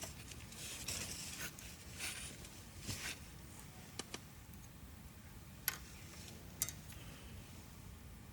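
Wood campfire crackling, with scattered sharp pops from the burning wood and two louder pops a little over halfway through.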